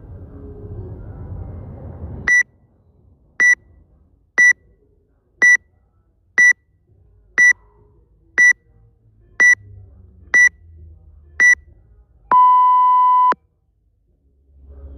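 Electronic workout timer counting down: ten short high beeps about one a second, then one longer, lower tone about a second long that signals the start of the workout.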